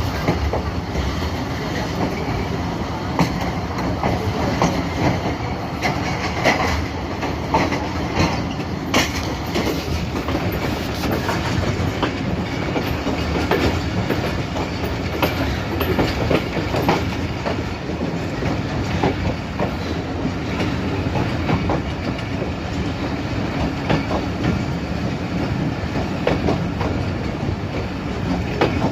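Millat Express passenger train running along the track, with the steady rumble of the coaches and the wheels clicking and clattering over the rail joints.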